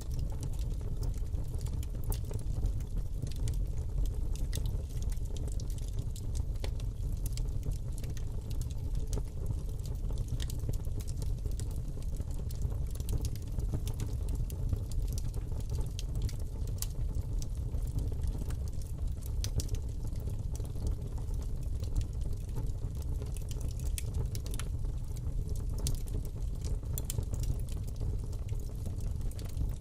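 Fire burning in a fireplace: a steady low rumble of flame with frequent irregular crackles and pops from the burning wood.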